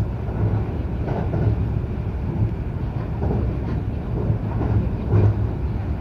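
Local electric train running at speed, heard from inside the passenger car: a steady low rumble of wheels on rail and running gear, with a few brief clatters.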